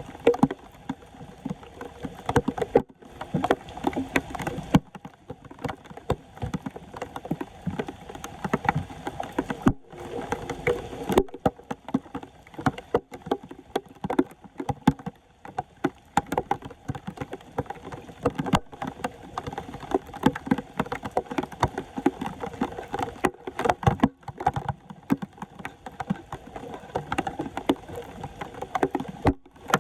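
Floodwater splashing and sloshing in quick, irregular strokes as it is stirred and worked around a clogged street drain.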